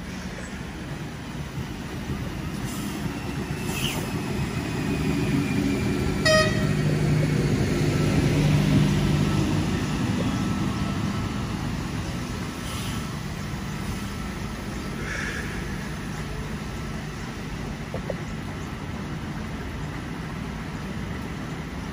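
A Sydney Trains V set double-deck electric intercity train runs past alongside the platform. Its low rumble builds to a peak about eight seconds in as the cars go by, then eases off. A short horn toot sounds about six seconds in.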